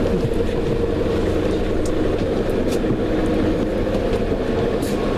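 Steady running noise of a moving train: a constant hum and rumble with no breaks.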